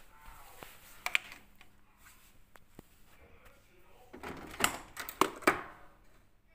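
Clicks and clattering knocks of appliance parts being handled: a sharp click about a second in, then a louder burst of several knocks between about four and five and a half seconds in.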